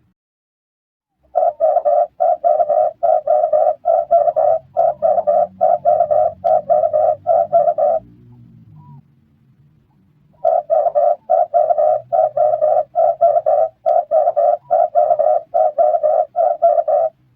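Red turtle dove calling: a rapid string of repeated coos, about three a second, in two long bouts with a pause of a couple of seconds between them.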